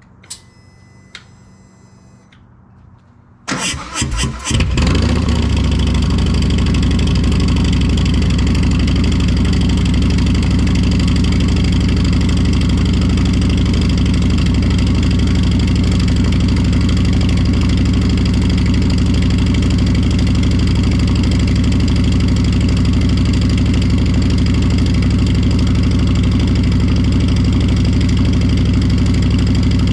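Harley-Davidson Fat Boy's Milwaukee-Eight V-twin cold-started through a Two Brothers Racing 2-into-1 shorty turnout exhaust: after a brief electronic tone, the starter cranks about three and a half seconds in, the engine catches a second later and settles into a loud, steady idle.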